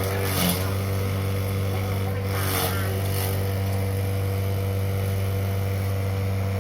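Grass chopper machine running steadily with a constant hum. Two brief louder bursts of noise come near the start and again about two seconds later.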